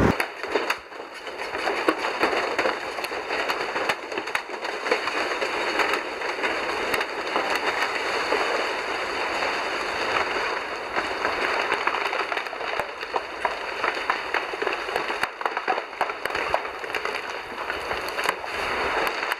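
Dense, continuous crackling of many firecrackers going off at once, a steady rattle of small snaps.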